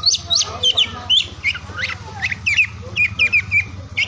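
Oriental magpie-robin (kacer) singing a fast, varied run of sharp whistled and chirped notes, many sliding quickly down in pitch, over a steady low hum.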